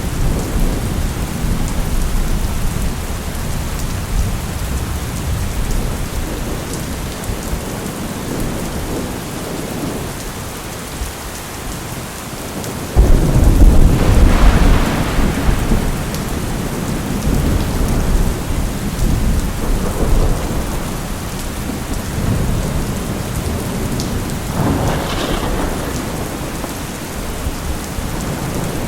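Steady rain with rolling thunder: a low rumble early on, a sudden loud thunderclap about 13 seconds in that rumbles for a few seconds, and a smaller peal near the end.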